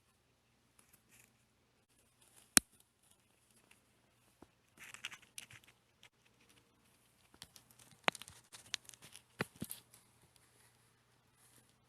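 Material being handled by hand: bouts of rustling and crinkling with sharp clicks, the loudest a single click about two and a half seconds in and a cluster of clicks later on.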